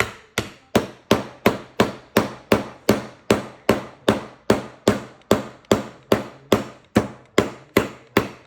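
Hammer driving a nail into a wooden board, a steady, even run of strikes at about two or three a second.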